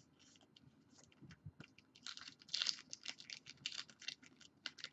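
Trading card pack wrapper crinkling and tearing as it is worked open, a quick run of crackling rustles that grows denser and louder about two seconds in.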